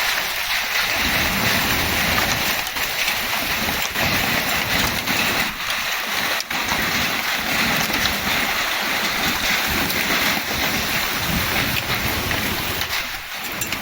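Torrential cloudburst rain beating down hard as a dense, steady hiss, with scattered sharp ticks of drops or hailstones striking.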